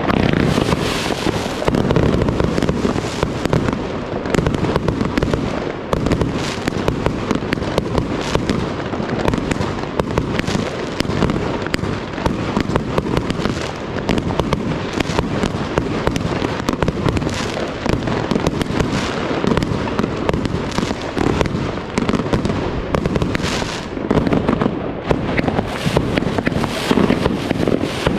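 Triplex XB4067 fireworks box firing without a break: a rapid, dense stream of launch thumps and bursting, crackling shots, many each second.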